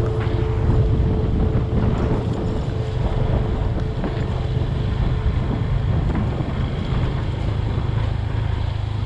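Motorcycle engine running steadily while under way, with wind rushing over the microphone.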